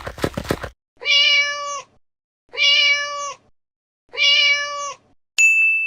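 Domestic cat meowing three times, the same steady-pitched meow repeated about every one and a half seconds, each under a second long. A bright bell ding starts near the end.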